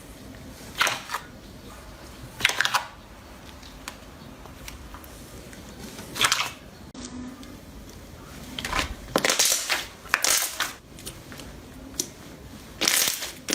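Slime being pressed and squeezed, in short crackling, squelching bursts separated by pauses, with a longer run of crackles in the middle and another near the end.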